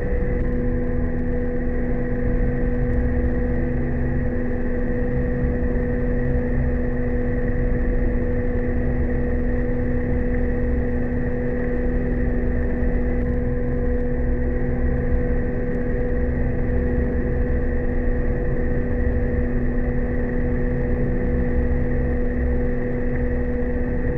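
The SS Eugenia's engine machinery running steadily at the dock during an engine test: an even low rumble with a steady hum and a higher whine over it.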